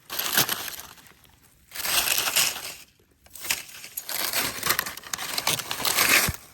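Forest-floor litter and debris rustling and crunching as it is raked through by hand in a search for millipedes. It comes in three spells of crackling, the last and longest running about three seconds.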